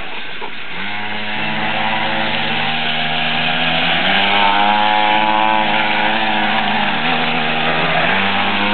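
Small 49cc mini dirt bike engine running hard, its pitch rising and falling as the throttle is opened and eased several times.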